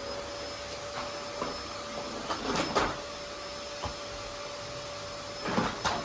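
Vacuum cleaner running with a steady hum, with clattering knocks about a second and a half in, around two and a half seconds in and near the end as it is moved around.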